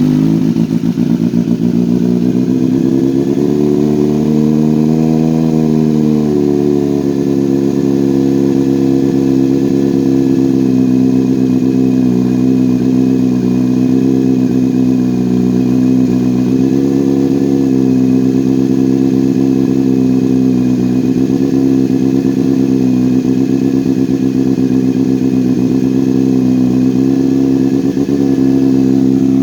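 2022 Kawasaki Z900's inline-four running at idle through a KO Lightning slip-on with the breadbox replaced by a straight link pipe and a stock header, loud. The revs rise a little for a few seconds about four seconds in, then settle back to a steady idle.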